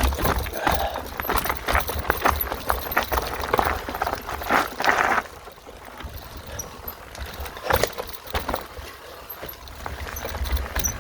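Mountain bike clattering and rattling over a rough singletrack trail, with wind buffeting the microphone and a brief scraping rush about four to five seconds in.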